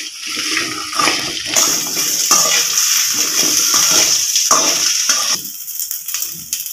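Cut okra sizzling in hot oil in a steel pan while a metal slotted spoon stirs it, scraping the pan in repeated strokes. The hiss swells about a second and a half in and drops back about five seconds in, when the stirring stops.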